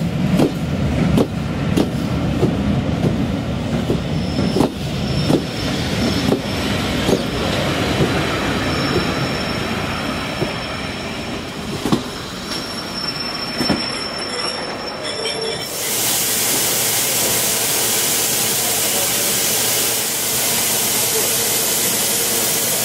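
Coaches of a steam-hauled train rolling slowly into the platform: wheels click over the rail joints, the clicks spacing out as the train slows, with a thin high brake squeal. About two-thirds through this gives way suddenly to a steady loud hiss of steam from the standing LMS Royal Scot class 4-6-0 locomotive 46115 Scots Guardsman.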